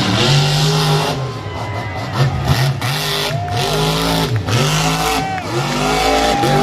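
Monster truck's supercharged engine revving hard, its pitch climbing and dropping again and again as the throttle is blipped and lifted.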